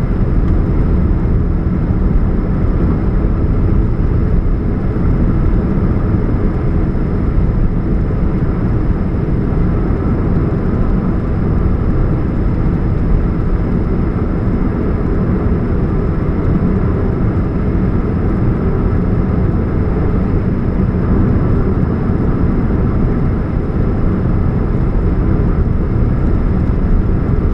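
2013 Chevrolet Spark running with a steady low hum and rumble that does not let up, the humming that the owner puts down to a leaking catalytic converter.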